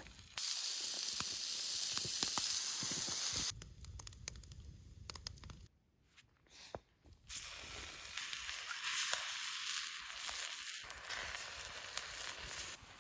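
Food sizzling in a small frying pan, heard in two stretches that start and stop with sharp cuts, with a quieter, lower-pitched stretch and a brief near-silent gap between them.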